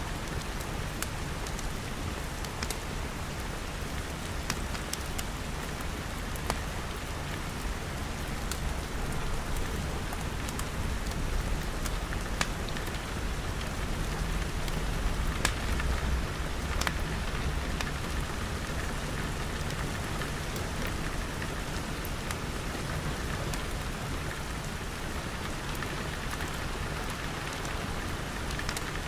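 Steady rain falling, with scattered sharp crackles from a wood fire. A low rumble swells through the middle.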